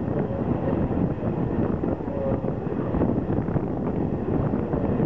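Wind buffeting the microphone at an open carriage window, over the steady rolling noise of a steam-hauled passenger train running at speed.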